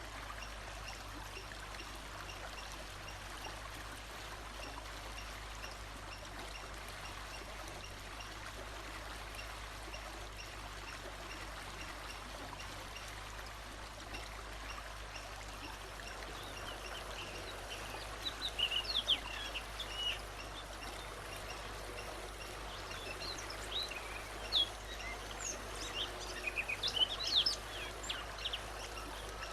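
Steady flowing stream of water, with a bird's quick chirps and short whistled calls over it in the second half.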